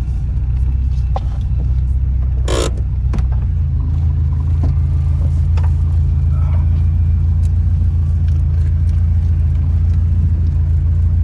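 Car engine running with a steady low drone, its pitch stepping up about three and a half seconds in. A short burst of hiss-like noise comes about two and a half seconds in.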